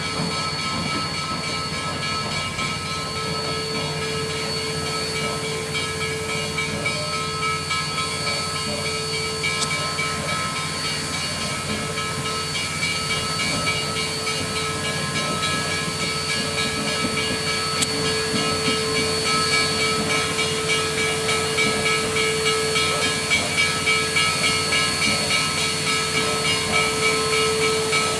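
2-8-0 Consolidation steam locomotive No. 734 standing with steam hissing steadily and a steady multi-tone hum from its running machinery. A soft regular pulsing creeps in during the second half.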